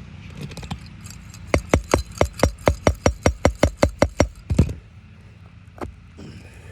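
A quick run of about fifteen sharp, ringing hammer blows on metal, about five a second, starting about one and a half seconds in and stopping a little past the middle, over a steady low hum.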